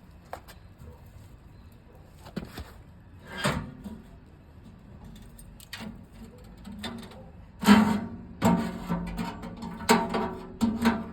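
Sheet-metal camping stove parts being handled and fitted: scattered knocks and clanks, some with a short metallic ring, becoming busier and louder in the second half.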